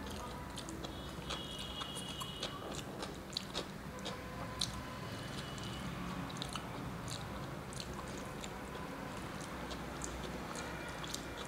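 Close mouth sounds of a person chewing a mouthful of rice and vegetable curry, with scattered soft clicks and smacks over a steady low hum.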